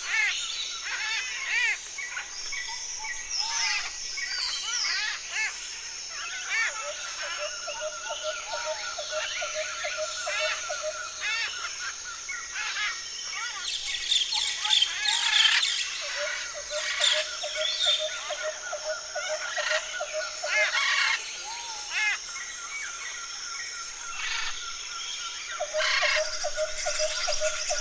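Several forest birds calling and singing at once: quick chirps, whistles and repeated trilled phrases overlapping, over a steady high-pitched drone.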